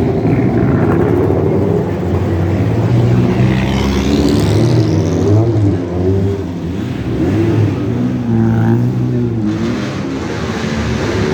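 Sports car engines running and revving, their pitch rising and falling. A sharp rising rev comes about four seconds in.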